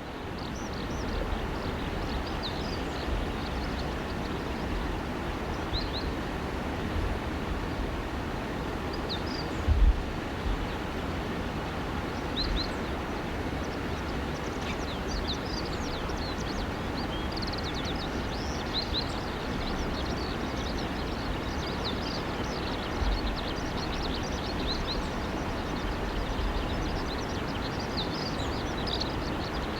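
Small birds chirping again and again over a steady rushing background noise, with two brief low thumps of wind on the microphone.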